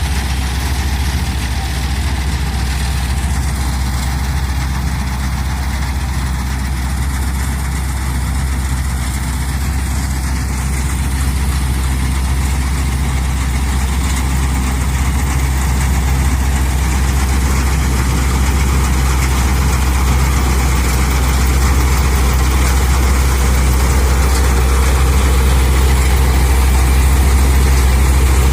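Eicher 557 tractor's diesel engine running steadily with a deep, even drone, growing slightly louder toward the end.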